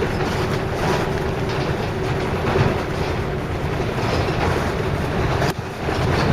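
Scania L113 bus's six-cylinder diesel engine running under way with road noise, dipping briefly about five and a half seconds in.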